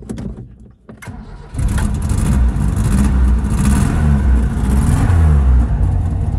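1984 Mitsubishi L200 Express engine being started: it catches suddenly about a second and a half in and then runs, its revs rising and falling.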